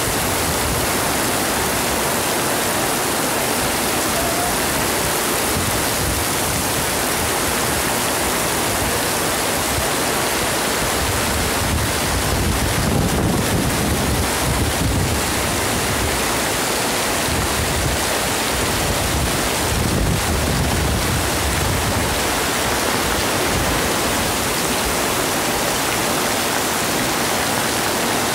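Torrential rain pouring down steadily onto pavement in a constant loud hiss. Twice in the middle, gusts of wind buffet the microphone with a low rumble.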